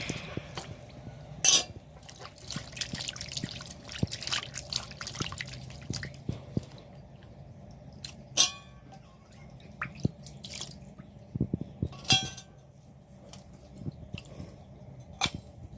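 Water dripping and splashing in irregular drops, with a few louder drips that ring briefly, over a low steady hum.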